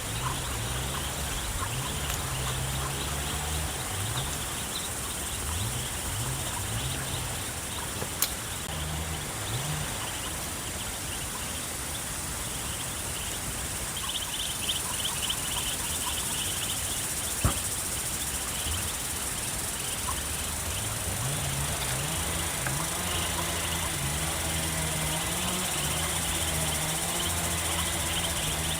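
Insects chirring steadily, with a low droning hum that shifts up and down in pitch in short steps. Two sharp clicks are heard in the middle.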